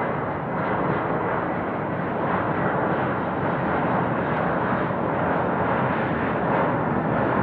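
Jet airliner engines at takeoff thrust: a loud, steady rushing noise that holds through the whole stretch.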